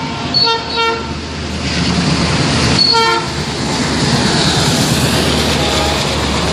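Indian Railways diesel locomotive sounding three short horn blasts, two close together near the start and one about three seconds in, as it pulls in close past. Its engine runs steadily, and its LHB coaches then roll by with wheel and rail noise.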